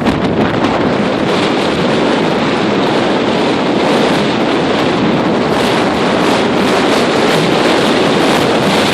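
Loud, steady gale-force wind buffeting the microphone, over the rush of heavy lake waves breaking against the pier.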